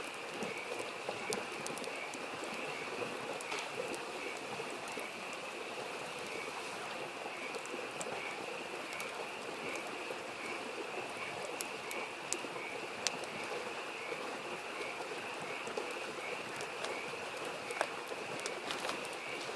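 Wood fire crackling with sharp pops now and then, over a steadily babbling stream and frogs calling in a continuous, evenly pulsing chorus.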